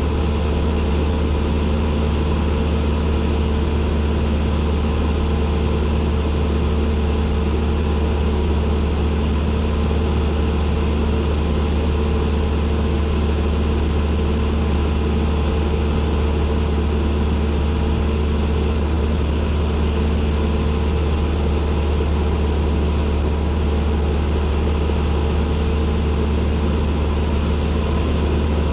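Cessna 172N's four-cylinder Lycoming piston engine and propeller droning steadily, heard inside the cockpit, with a deep low hum and fixed overtones that do not change.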